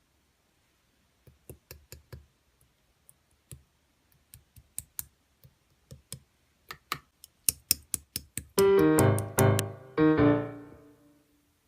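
A run of sharp clicks and taps, coming faster and louder, then piano chords begin about two-thirds of the way in and ring out as a slow accompaniment.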